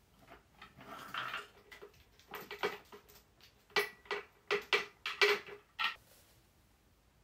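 A series of light clinks and knocks of hard objects, about a dozen, the louder ones ringing briefly at the same pitch, with a short rustle about a second in.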